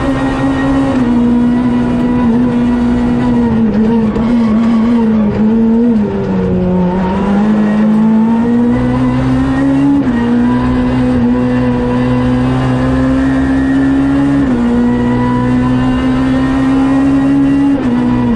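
Renault Clio R3C rally car's engine heard from inside the cockpit, running hard at high revs. The pitch drops sharply at each upshift, about four times, and near the middle the revs sag and then climb steadily under acceleration.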